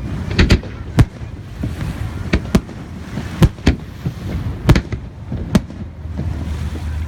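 Fireworks display: a quick, irregular series of sharp bangs, about a dozen, over a low rumble.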